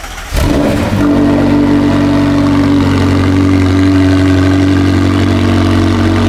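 A McLaren supercar's twin-turbo V8 starting up: it catches and flares briefly about half a second in, then settles into a steady idle.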